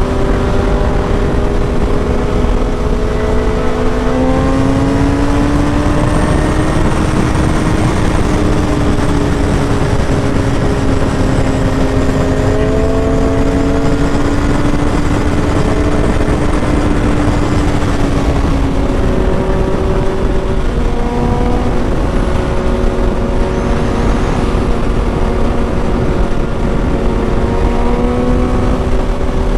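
Kawasaki Ninja ZX-6R inline-four engine running at a steady cruise, its note rising and falling gently as the speed changes, under a constant rush of wind noise from riding.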